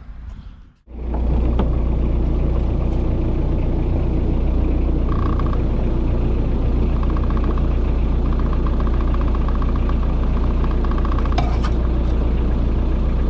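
Small fishing boat's engine running steadily, a deep even hum that starts abruptly about a second in.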